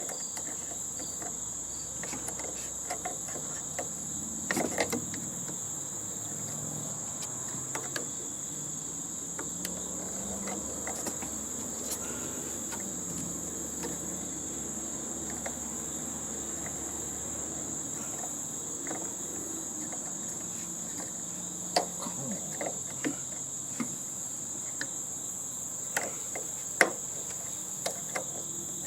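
Steady high-pitched chirring of crickets, with scattered clicks and knocks of hand tools and metal parts as an air-conditioning unit is taken apart.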